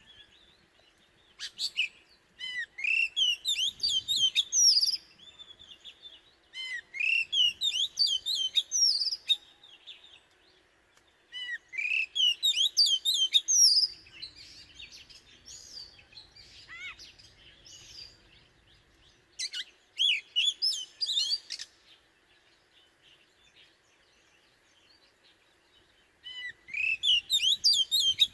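Oriental magpie-robin singing: about five loud phrases of quick, varied whistles and chirps, each lasting a few seconds, separated by pauses.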